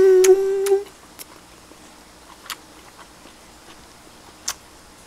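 A person eating: a short hummed "mmm" at the start, then chewing with scattered sharp mouth clicks and smacks.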